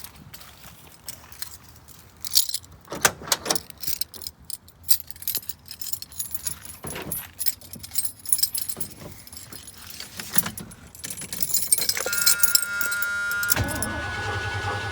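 Keys jangling and clicking as the ignition key is handled. About twelve seconds in, a steady warning tone starts, breaking off now and then. Near the end the starter cranks the engine without it catching: a no-start, cranked so the distributor can be watched spinning.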